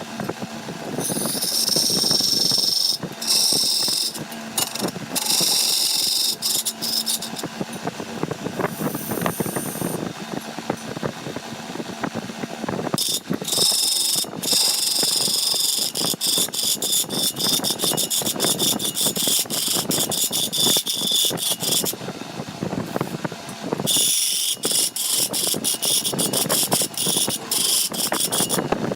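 Woodworking machinery at work: a steady motor hum under loud scraping and chattering of a tool cutting wood, with the high-pitched part starting and stopping abruptly several times.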